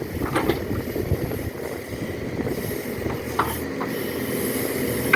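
Backhoe engine and hydraulics running steadily while the hydraulic rock breaker is not striking, with a few short metallic knocks.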